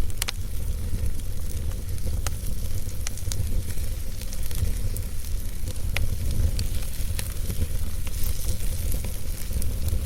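Wood fire burning in a fireplace: a steady low rumble and hiss of flames with irregular crackles and pops from the burning logs, a sharper pop just after the start and another about six seconds in.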